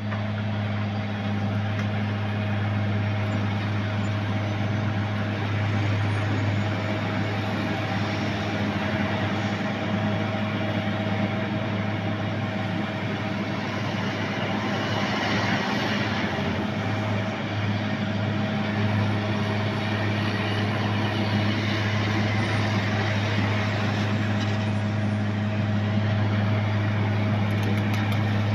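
Heavy diesel engine running steadily with a constant hum, typical of road-works machinery or a truck at a road repair site.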